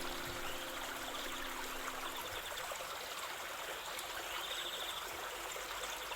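Steadily running stream water, trickling and babbling. Soft held music tones carry over at the start and die away a couple of seconds in.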